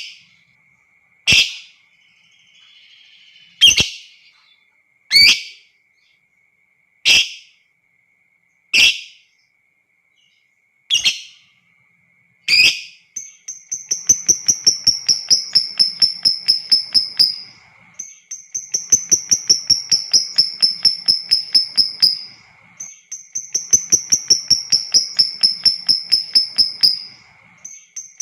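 Lovebird calling: a string of single sharp, high screeches about every second and a half, then from about halfway long bouts of rapid, repeated chattering notes, each about four seconds long. This is the lovebird's long 'ngekek' chatter.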